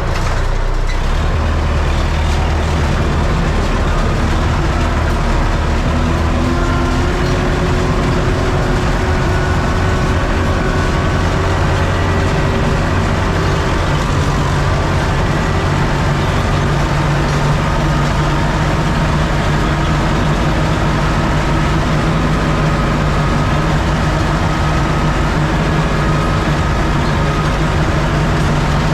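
Diesel engine of a UTB Universal U650 tractor running steadily under load while pulling a row-crop cultivator, with small shifts in engine pitch partway through.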